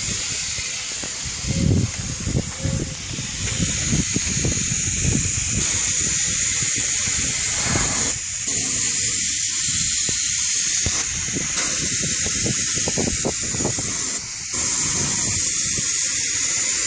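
Headlight coating being sprayed: a steady hiss that dips briefly every few seconds as the sprayer is let off and pressed again between passes, over a low rumble.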